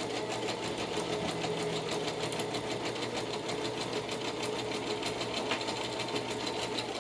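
Electric sewing machine running steadily, stitching a zigzag stitch, and stopping at the very end.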